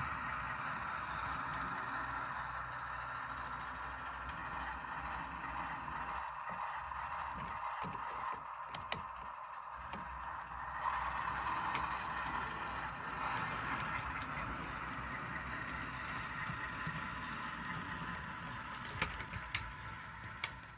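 A train moving cars along the track, a steady running noise with a few sharp clicks near the end.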